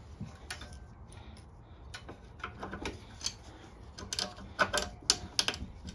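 Light clicks and taps of hand tools and small metal mower parts being handled during carburetor work. The clicks are irregular and come thicker and sharper a little after four seconds in.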